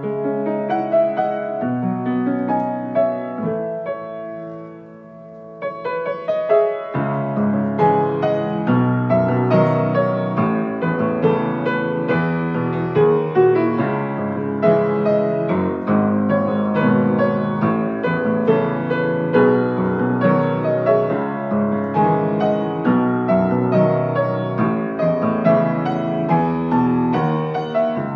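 Solo piano playing an improvised arrangement, melody over chords. It thins to a soft, sparse passage about four seconds in, then fuller chords come back about seven seconds in.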